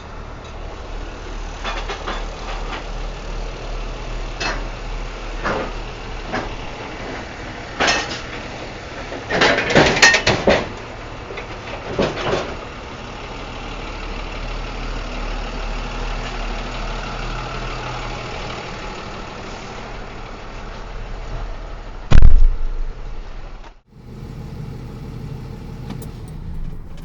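A vehicle engine idles steadily while crates are unloaded, with intermittent clanks and knocks. There is a clattering cluster about ten seconds in and a single loud thump near the end.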